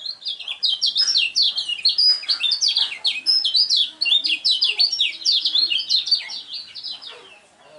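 Kecial kuning, a white-eye, singing a long unbroken run of rapid, sweeping high chirps and trills, typical of a strong contest bird singing at length ('ngejos'). The song fades near the end.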